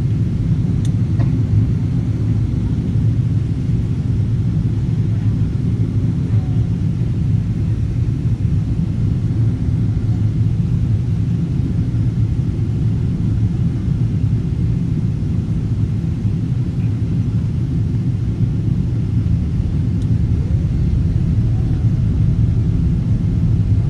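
Boeing 777-200ER in flight on approach: a steady low rumble of engine and airflow noise that holds level throughout.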